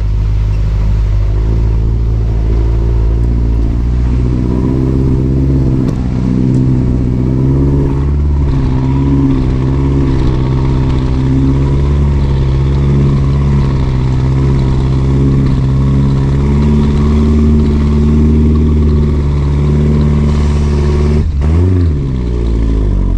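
Off-road 4x4's engine running loud and steady under load, its pitch wavering slightly. Near the end the revs drop and pick up again.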